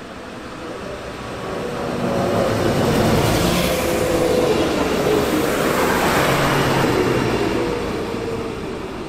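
A train passing by: its rumble builds over the first two seconds, stays loud with a few steady and slowly falling tones, then fades near the end.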